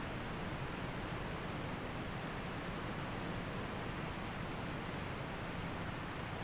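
Waterfall water rushing in a steady, even roar of falling water.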